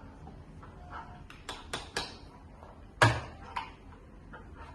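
A few sharp clicks and knocks, like small objects being handled, with one louder knock and thud about three seconds in.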